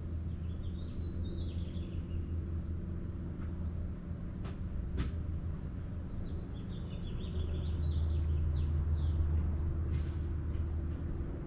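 Small birds chirping in two quick runs of short high notes, the first near the start and the second past the middle, over a steady low rumble that swells in the second half.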